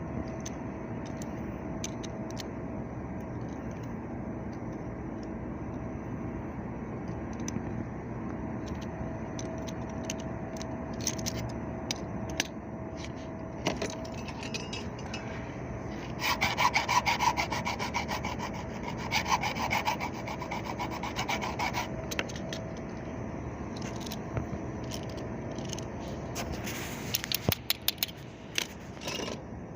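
Tool work: scraping and rasping strokes, loudest in a stretch about halfway through, then a flurry of sharp clicks and knocks near the end, over a steady hum.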